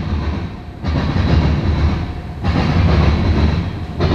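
Freight train tank cars rolling past: steady rumble and clack of steel wheels on rail, surging about every second and a half as wheel sets go by.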